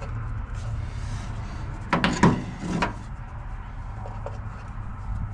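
A few clunks and knocks close together about two to three seconds in, over a steady low hum.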